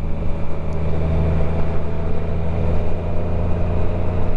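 Motorcycle engine running at a steady cruising speed, a constant low hum with no change in pitch, over even road and wind noise.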